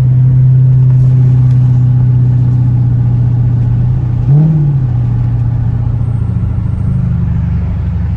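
Modified car's V8 engine and exhaust droning steadily while driving, heard from inside the cabin, with one brief rise and fall in revs about four seconds in.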